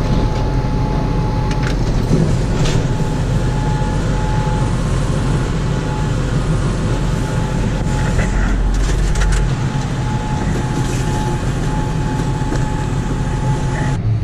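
John Deere 7630 tractor's diesel engine running steadily, heard from inside the cab, with a thin high tone sounding on and off over it and a few short clicks.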